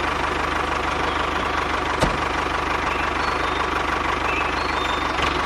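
An engine running steadily at idle, with a rapid, even low throb. There is a single sharp click about two seconds in.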